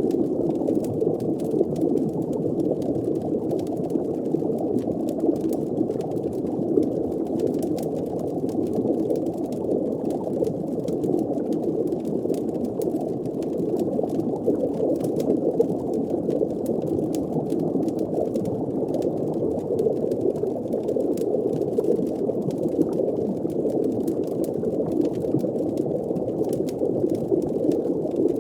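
Steady, muffled underwater ambience: a continuous low bubbling wash of water, with faint fire crackles scattered through it.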